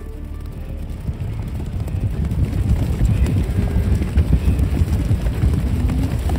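Hooves of a running herd drumming on the ground, a dense rumble of many hoofbeats that grows louder as the herd comes closer.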